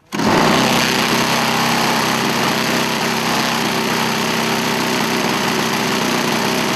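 Gasoline engine of a large-scale RC model airplane running steadily at high power. It cuts in suddenly, full level, right at the start.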